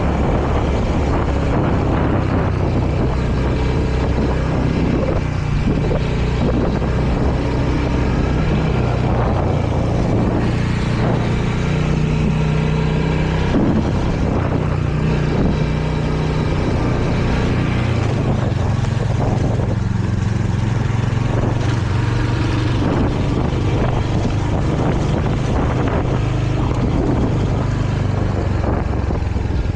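Royal Enfield Hunter 350's single-cylinder engine running while riding, its low exhaust note steady but shifting up and down in pitch with throttle and gear changes.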